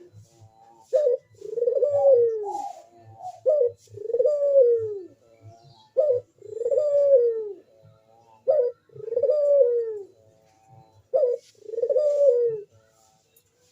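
A puter dove (domestic collared dove) cooing steadily in full breeding condition. It gives five two-part coos about every two and a half seconds, each a short sharp note followed by a longer arching note that falls away.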